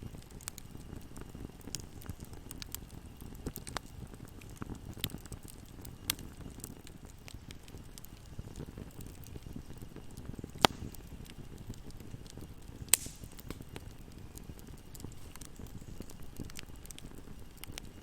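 Wood fire burning in a fireplace: a steady low rush of flames with scattered crackles and sharp pops, the two loudest about ten and thirteen seconds in.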